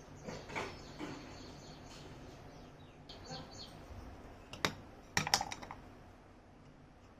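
Scattered light clicks and taps of small parts being handled, with a sharp click a little past halfway and a quick cluster of louder clicks just after it.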